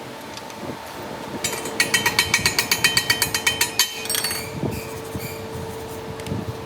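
Fast metal-on-metal tapping, about six strikes a second with a ringing tone, for about two seconds over a steady machine hum in a metalworking shop, followed by a few scattered knocks.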